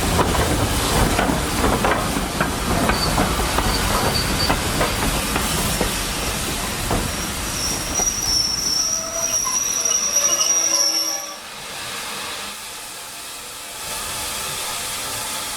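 Steam-hauled train running past with its wheels rumbling and clicking over the rail joints, then a high wheel squeal from about halfway in. The rumble drops off suddenly near the end, leaving a steady hiss.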